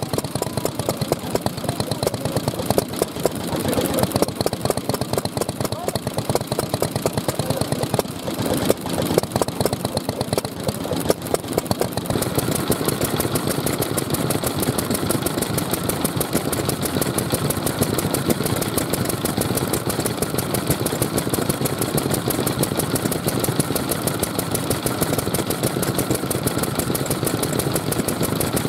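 Old stationary engines (Japanese hatsudōki petroleum engines) running with a rapid, steady chugging beat. The beat becomes more even about twelve seconds in.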